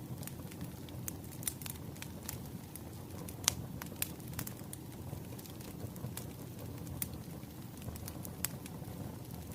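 Wood fire burning with a steady low rumble and irregular sharp crackles and pops, one louder pop about a third of the way through.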